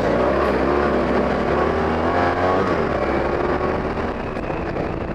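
Motorcycle engine running on the move, its pitch rising and falling with the throttle over a steady low drone, with wind noise.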